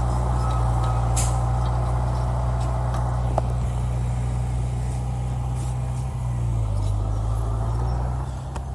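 Heavy earthmoving machine's diesel engine running steadily with a deep hum, its pitch dropping a little about two thirds of the way through; a single short click about halfway.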